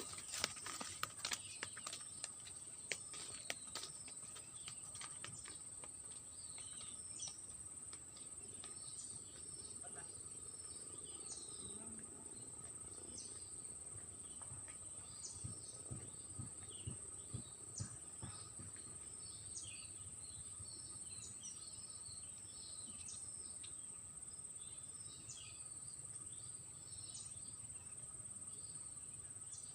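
Small birds chirping in short scattered calls over a steady high-pitched insect drone, with a few handling clicks in the first few seconds.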